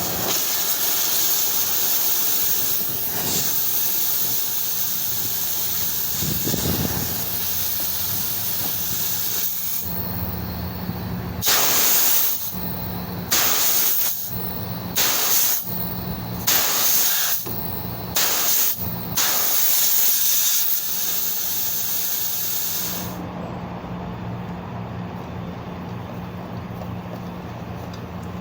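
Pressurized gas hissing as it is blown through refrigeration tubing to flush the system clean. It starts as a steady hiss, then comes in a run of about six short blasts, and stops well before the end, leaving a low steady hum.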